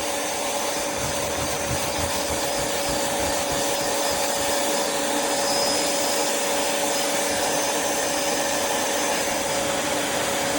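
Bissell cordless Little Green portable carpet cleaner running, its suction motor giving a steady hum with a constant whine as the nozzle scrubs the carpet and sucks up dirty water.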